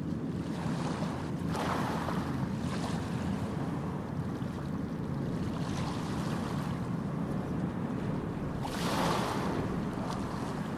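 Water and wet clothes sloshing in a hand-operated washing device, in several swishing surges, over a steady low rumble of wind on the microphone.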